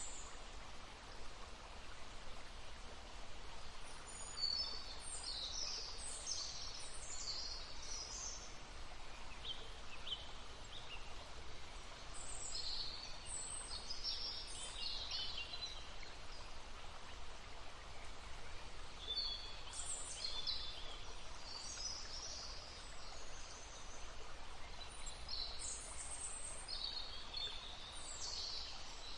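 Small birds singing in short, high chirping phrases that come in bursts every few seconds, over the steady rush of a babbling brook.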